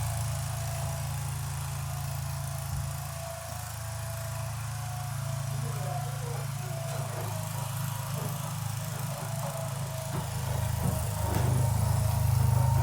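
An engine running steadily with a low, even hum, getting somewhat louder near the end.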